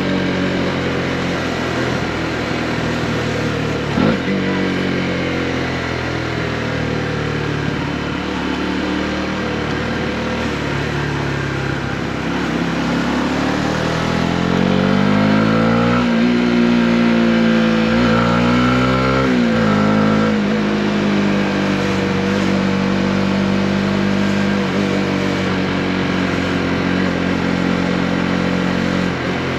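Honda CB125R's single-cylinder four-stroke engine running under way, mostly at steady revs. About halfway through the revs climb, then drop back abruptly at a gear change before holding steady again.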